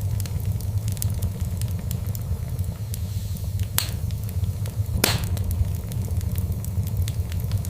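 Wood fire burning with a steady low rumble and scattered crackles, and two louder pops at about four and five seconds in.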